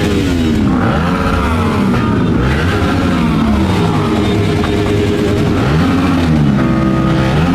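Several motorcycle engines running together, their pitches rising and falling and overlapping as the bikes rev and shift, over a steady low rumble.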